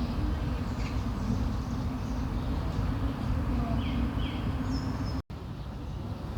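Small birds chirping in short, scattered calls over a steady low rumble of outdoor background noise. The sound drops out for an instant about five seconds in, and the rumble is quieter after that.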